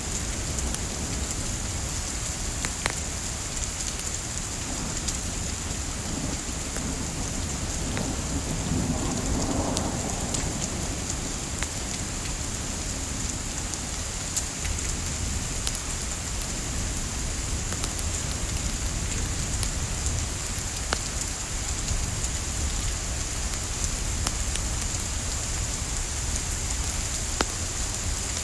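Steady hiss of soft rain over a low rumble, with scattered sharp crackles and pops of burning wood in a fireplace.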